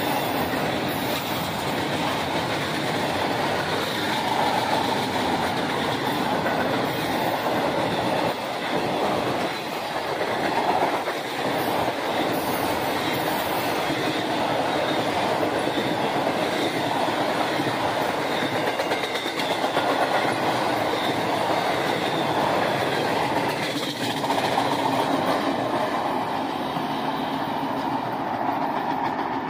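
Double-stack container freight train passing close by: a steady, loud rumble of the cars' wheels running on the rails, with the last cars going by near the end.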